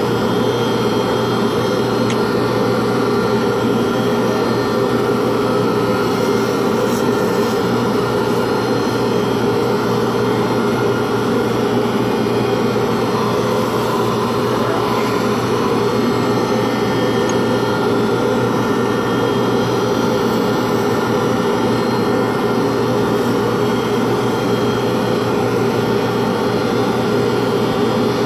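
A pen-turning lathe's motor running steadily with a constant hum, the spinning work making a steady whirring noise.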